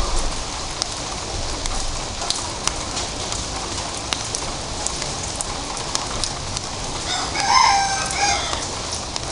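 Light drizzle falling steadily, with scattered drops ticking. About seven seconds in, a bird gives a loud call lasting a second or so.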